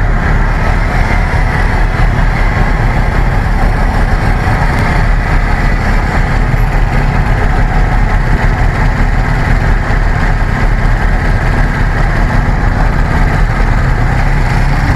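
Loud, steady street traffic noise: motor scooter engines running close by at a road crossing.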